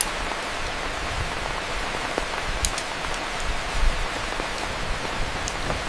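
Steady rushing hiss like rain or wind in foliage, with low rumbles underneath and a few faint clicks.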